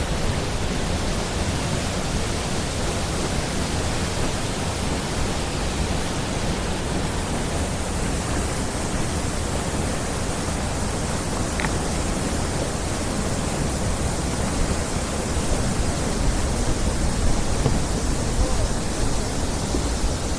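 Steady wind buffeting the microphone, a continuous rushing noise that is heaviest and most uneven in the low rumble.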